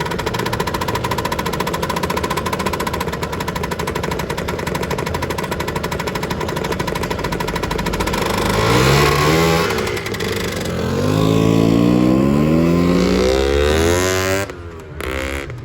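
Two-stroke Lambretta scooter engines running, then about eight seconds in one accelerates away, its pitch rising, dropping at a gear change, and rising again. The sound falls away near the end.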